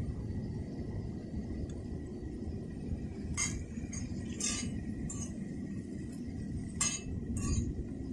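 Light clinks of tableware, about six short strikes spread over the second half, over a steady low rumble.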